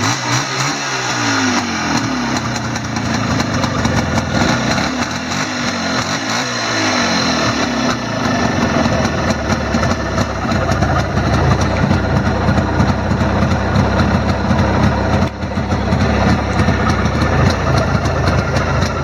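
Jawa 638 motorcycle's 350 cc two-stroke twin engine revved up and down several times, then running steadily with a fast regular pulse. There is a brief break about 15 seconds in.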